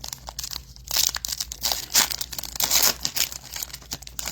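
Foil trading-card pack wrapper being torn open and crinkled: a dense run of crackling and tearing, loudest in the middle.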